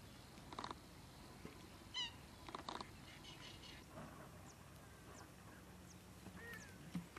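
Faint calls of wading birds in a wetland: a few short, sharp call notes in the first three seconds and a brief whistled note later, over a steady low outdoor hiss.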